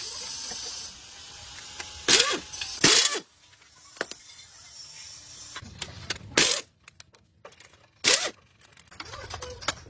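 Repair work on metal machinery: four loud separate knocks or clanks of tools on metal, with quieter mechanical rattling in between.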